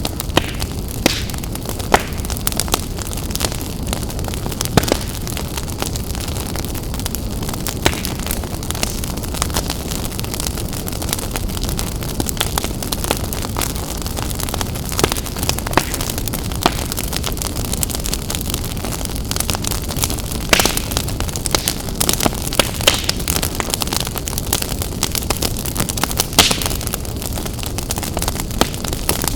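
Wood fire burning in a fireplace: a steady low roar of the flames with irregular crackles and sharp pops from the burning logs.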